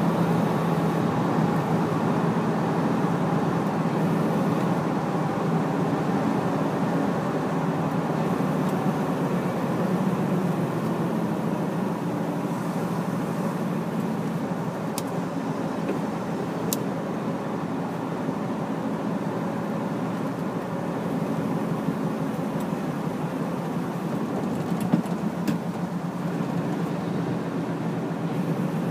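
Hino heavy truck's diesel engine running steadily on the road, with tyre and road noise and an engine note that drifts slowly up and down. A few sharp clicks come in the second half.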